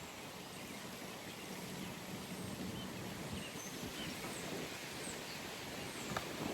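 Outdoor pond ambience: a steady background hiss with a few faint, scattered high bird chirps, and a faint low hum that fades out after about three seconds.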